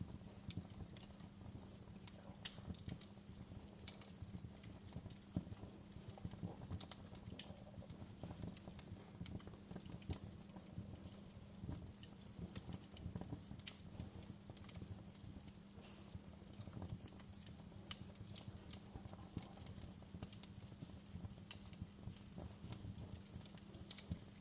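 Wood fire crackling: irregular sharp pops and snaps scattered through, over a faint steady low rumble.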